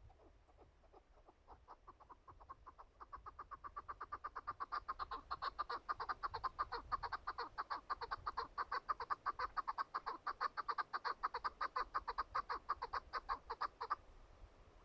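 Chukar partridge calling: a long, rapid series of clucking chuck notes, several a second. It builds in loudness over the first few seconds, holds, then stops abruptly near the end.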